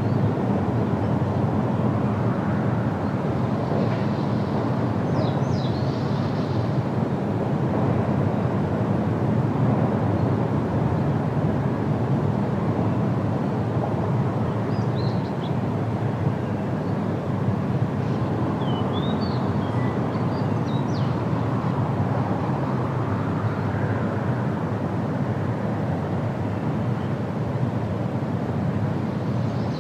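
Steady wind rushing through trees, with a few brief, high bird chirps scattered through it.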